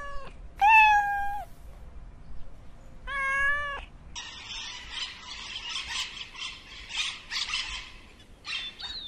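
A domestic cat meowing: two long, drawn-out meows, the first of them loud. After them comes about four seconds of raspy, scratchy noise.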